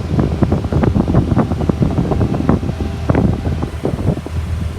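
Blue Bird school bus engine idling steadily with a low hum, heard from inside the cab, with irregular light clicks and rattles over it.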